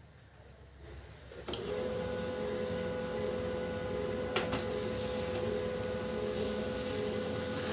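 Canon LBP2900 laser printer starting a print job about a second and a half in, then running steadily with a constant motor-and-gear hum and a clear tone, with a sharp click twice. This is the printer running after its gear-noise fault was repaired.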